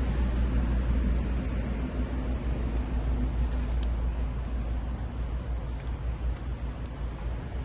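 Wood fire burning hard in a compact stainless fire pit: a steady low rumbling roar of the flames, with a few faint crackles from the burning wood about halfway through.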